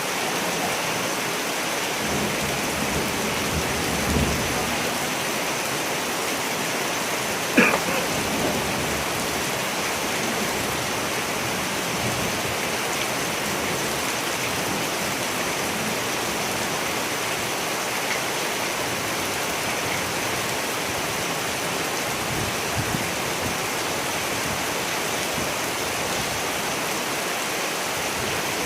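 Steady rain falling, with a low rumble of thunder at about two to four seconds in and a single short, sharp crack a few seconds later.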